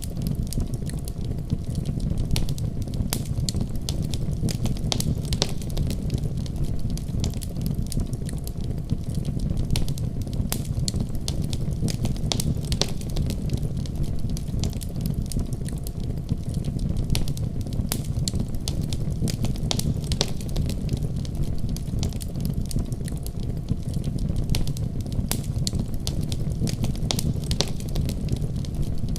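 Wood fire crackling in a fireplace: a continuous run of sharp pops and snaps over a steady low rumble.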